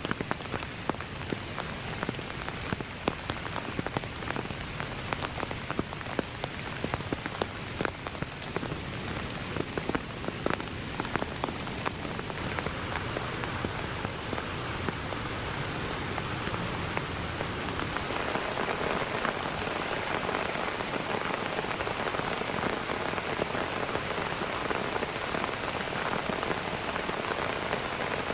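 Heavy rain falling, with many sharp drop hits close by. The rain grows denser, steadier and slightly louder about two-thirds of the way through.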